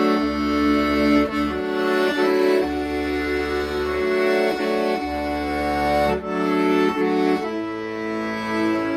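Accordion playing a slow, sustained melody over held chords, with bass notes sounding in turn every second or so and then held near the end.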